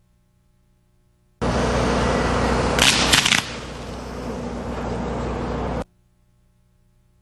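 A consumer firework going off with a loud hissing, crackling burst. A few sharp cracks come about a second and a half in, then steady hissing until it cuts off abruptly.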